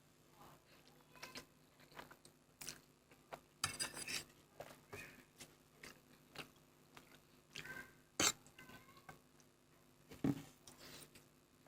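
Mouth sounds of someone eating Maggi instant noodles: irregular chewing with small wet clicks and smacks, a brief cluster about four seconds in and one sharper smack a little after eight seconds.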